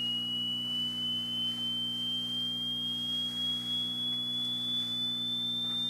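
Hearing-test frequency sweep played through computer speakers: one pure tone slowly and evenly rising in pitch, over a low steady hum.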